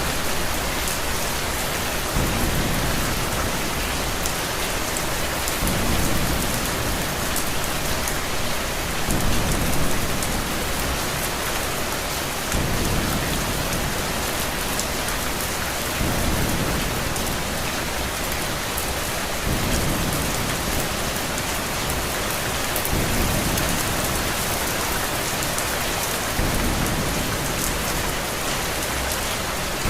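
Steady heavy rain hissing on a surface, with a low rumble of distant thunder that swells and fades every three to four seconds.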